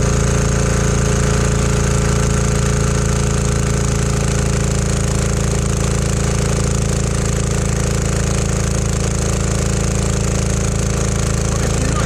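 196cc 168F single-cylinder diesel engine driving a generator, running steadily under load during a max load test.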